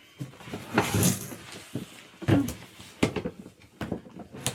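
Parts of a gaming chair being handled during assembly: several irregular knocks and clicks with brief rustling.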